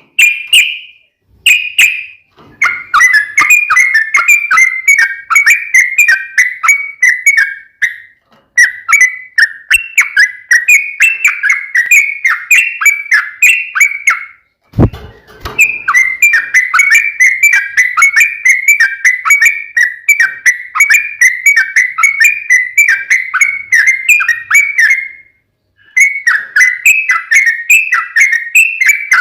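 Yellow-vented bulbul (trucukan) singing its fighting song: long runs of rapid, bubbling chattering notes, each phrase lasting several seconds with brief pauses between, and a single low knock about halfway through.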